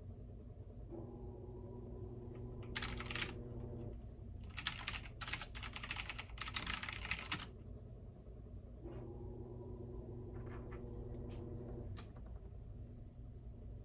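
Typing on a computer keyboard in quick bursts: a short run about three seconds in, a longer run from about four and a half to seven and a half seconds, then a few scattered keystrokes. Under it, a washing machine's steady low hum, with a motor whine that comes and goes twice.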